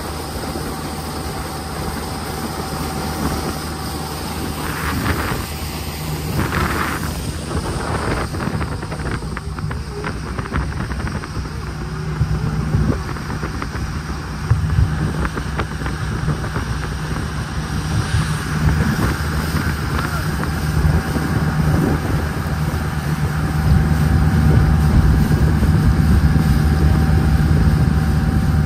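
Jet boat engine running steadily over wind and water rush, getting louder near the end as the boat speeds up.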